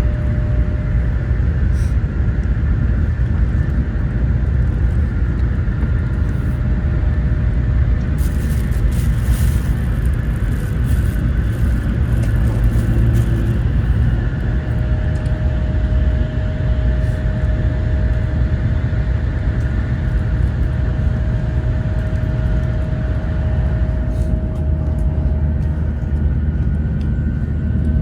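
Taiwan High Speed Rail bullet train running at speed: a steady low rumble with a faint steady whine that becomes clearer about halfway through.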